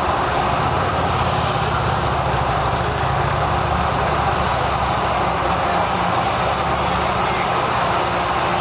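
Steady motor-vehicle engine rumble with road noise.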